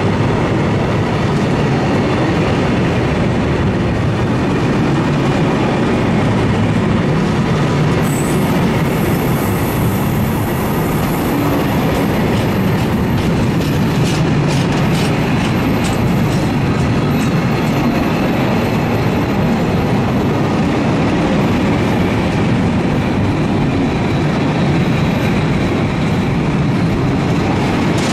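Freight train wagons rolling past, a loud, steady rumble of wheels on rail. A thin, high wheel squeal comes in about eight seconds in and fades out about twenty seconds in, with a run of sharp clicks in the middle.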